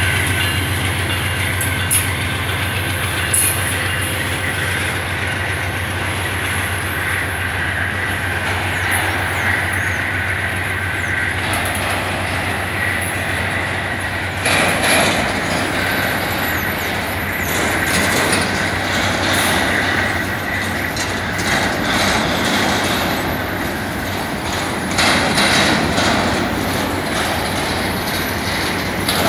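Freight wagons of a long train rolling past close by: a steady rumble of steel wheels on the rails with clacking over the rail joints. Thin high wheel squeal runs through the first half.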